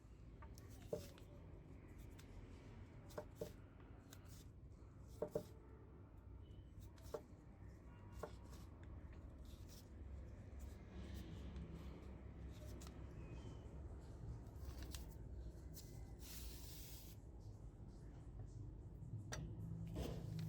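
Quiet hand work: light rubbing and scraping with a few sharp small clicks and taps, and a longer scrape of about a second near the end, over a low steady rumble.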